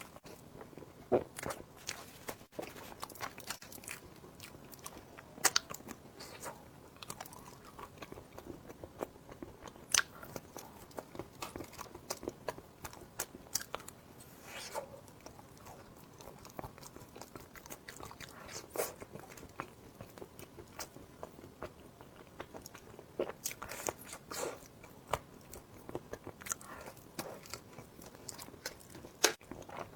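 A person biting and chewing crunchy food, with irregular crisp crunches and mouth sounds.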